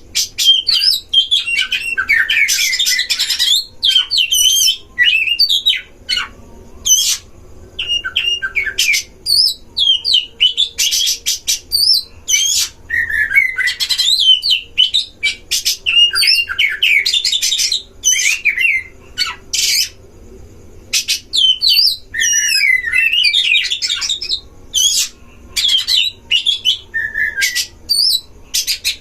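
Oriental magpie-robins (kacer) in a song duel: loud, fast, varied phrases of gliding whistles and harsh chattering, broken by short pauses. This is aggressive, competitive singing.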